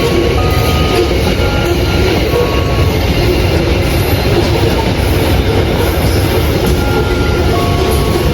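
Train passing close by: a steady, loud rumble of wheels on the rails, with scattered brief high-pitched tones.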